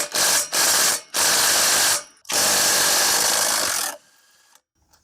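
Power tool run in four bursts, the last two longer (about a second and a second and a half), while undoing the rear wheel of a mini bike.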